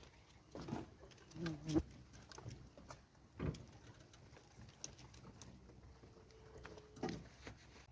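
A handful of scattered dull knocks and bumps, with a faint steady hum for about a second and a half near the end.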